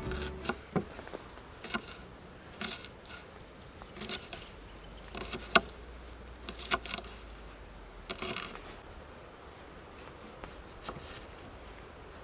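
Irregular short clicks and crackles, a dozen or so scattered over several seconds, over faint outdoor background noise.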